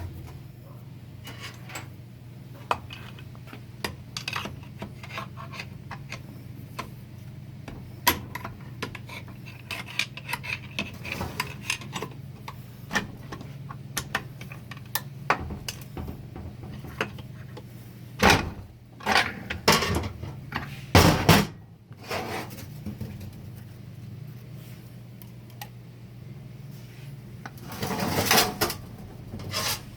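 Metal transmission parts and tools clinking and clattering as a 4L60-E automatic transmission is taken apart, with scattered knocks throughout and heavier bursts of clatter about two-thirds of the way through and again near the end. A steady low hum runs underneath.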